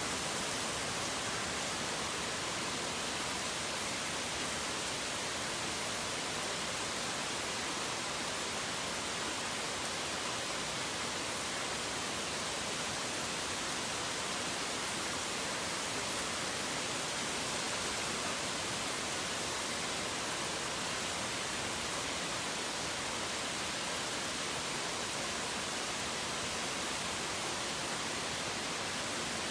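Steady rain: an even, unchanging hiss with no thunder or birdsong standing out.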